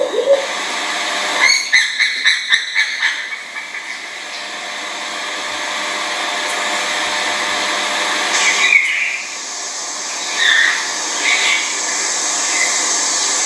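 A quick run of bird calls about two seconds in, then a steady hiss that slowly grows louder, with a few short bird chirps near the end.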